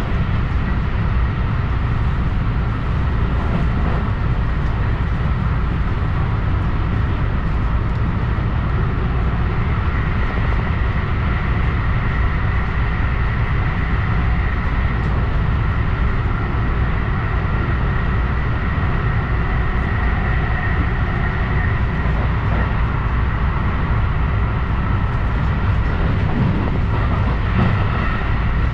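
Electric train on the JR Tokaido Main Line running steadily, heard from inside the carriage: a continuous low rumble with a steady high whine over it.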